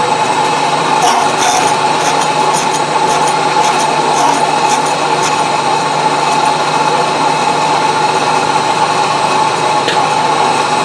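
Milling machine running with a steady whine, its cutter taking a cut in a wood-chipper blade, with scratchy crackles of the cut in the first few seconds.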